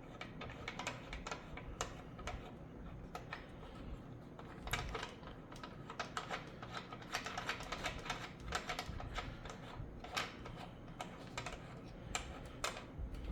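Irregular light clicks and taps from handling the speaker's threaded binding posts.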